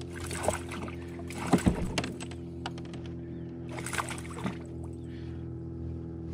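Steady hum of a small motor on a fishing kayak, with a few sharp knocks about half a second and a second and a half in, and short hissy rushes near the start and about four seconds in.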